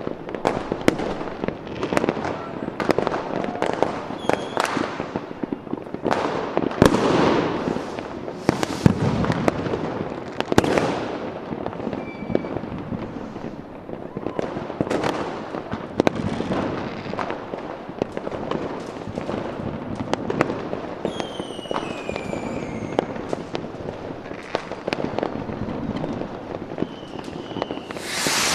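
A fireworks display with a dense run of bangs and crackling pops. A little past two-thirds in, several whistles fall in pitch, and a loud hiss comes near the end.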